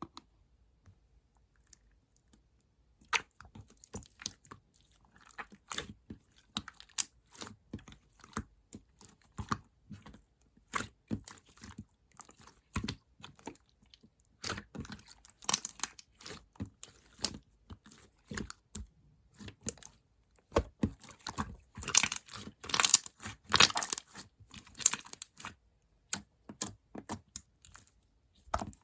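Clear slime topped with soft clay being squeezed, stretched and poked by hand, giving irregular sticky clicks, pops and crackles that come thickest in the last third.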